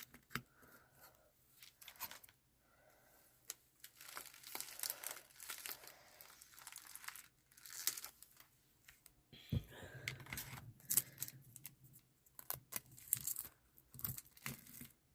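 Thin plastic bags crinkling and crackling as they are crumpled and packed into a plastic bottle to make an eco-brick, in irregular spurts with short pauses.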